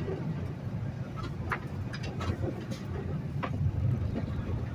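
Inside the cab of a Peterbilt semi truck on the move: a steady low diesel engine and road rumble, with a few scattered light clicks or rattles in the middle.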